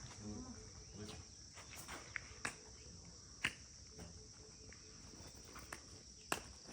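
Steady high-pitched chorus of crickets, with a few sharp clicks of footsteps on the trail.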